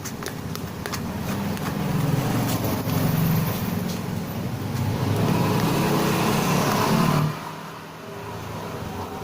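A motor running steadily with a low drone, growing a little louder, then cutting off abruptly about seven seconds in.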